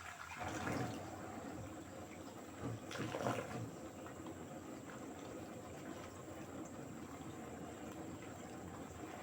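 Faint water sounds from an LG direct-drive washing machine partway through its cycle, with two brief louder swells about a second in and about three seconds in.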